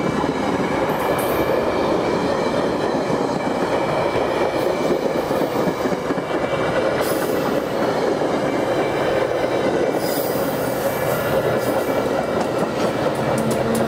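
Metra commuter train's stainless-steel bilevel passenger cars rolling past close by: steady wheel-and-rail noise from the moving train.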